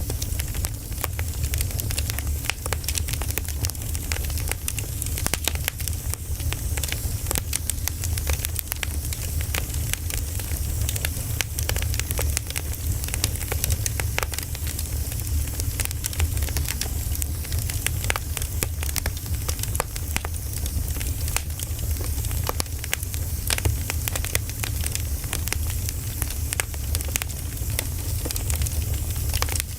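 Wood fire burning, with frequent irregular crackles and pops over a steady low rumble and hiss.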